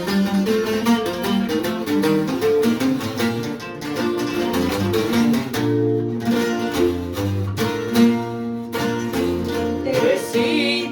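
Walnut-and-Sitka-spruce bajo quinto with steel strings, strummed and picked as the rhythm and bass, with a requinto guitar playing the lead melody in a ranchera instrumental introduction.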